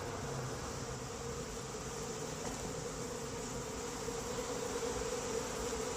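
A honeybee swarm buzzing steadily: a dense, even hum.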